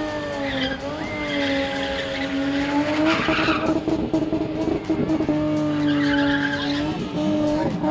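Car engine held at high revs during a spinning stunt, its pitch dipping and recovering, with tyres skidding on the tarmac.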